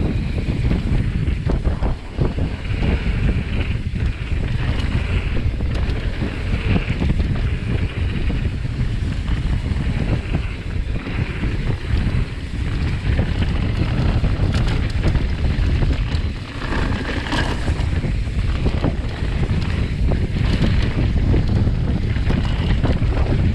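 Heavy wind buffeting the microphone, a steady loud rumble with gusty swells and a hiss on top.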